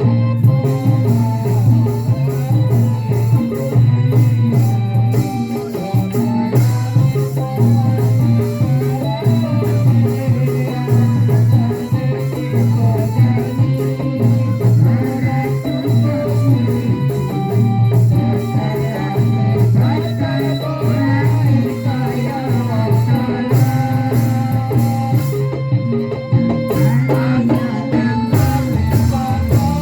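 Live band music: an instrumental passage with a steady pulsing bass and drum beat, shaker percussion and a melody line above.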